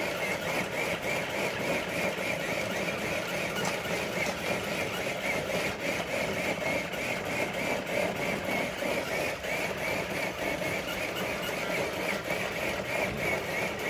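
Electric motor and geared drivetrain of a scale RC crawler truck whining steadily under load as it pulls a weighted sled. The whine holds an even pitch throughout, with a fast fine flutter.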